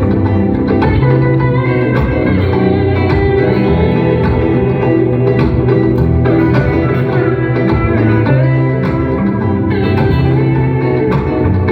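Live instrumental guitar music: plucked guitar lines over held low notes, played on stage by a guitar duo.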